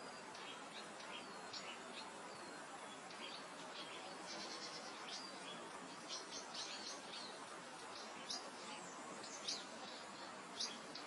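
Gentle wind through grassland with several small birds chirping and trilling, the calls coming thicker about halfway through and again near the end.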